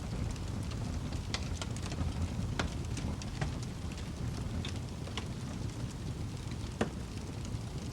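Wood fire burning with a steady low rumble and irregular sharp crackles and pops, a few louder ones standing out.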